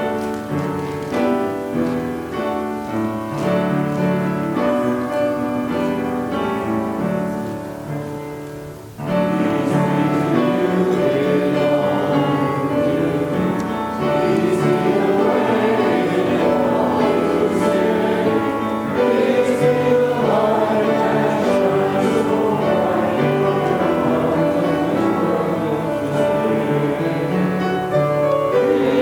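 Piano playing alone, then about nine seconds in a group of voices comes in singing with the piano, noticeably louder.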